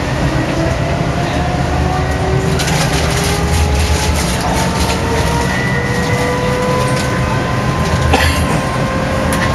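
Electric streetcar running on its rails, heard from inside: a steady low rumble, with a motor whine that slowly rises in pitch as the tram gathers speed. A few sharp clicks come from the wheels over the track.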